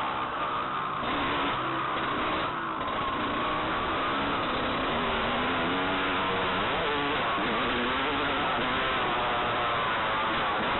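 Motocross bike engine revving up and down as it is ridden hard around the track, its pitch rising and falling with throttle and gear changes, with a couple of brief throttle cuts in the first few seconds.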